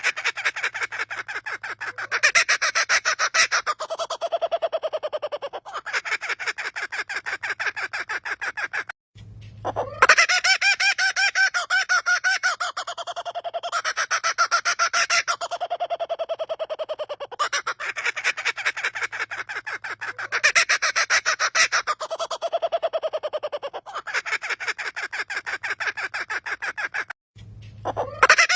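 A bird giving a loud, rapidly pulsing call that sounds like a person laughing, repeated in long phrases of several seconds. There are brief breaks about nine seconds in and near the end, and a fresh call rises sharply after each.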